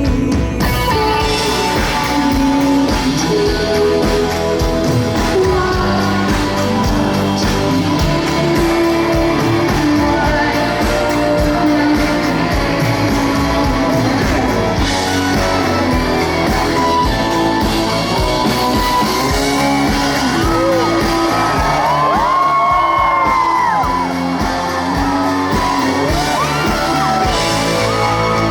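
Live band playing an indie-rock song, with a woman singing over it, recorded from the audience.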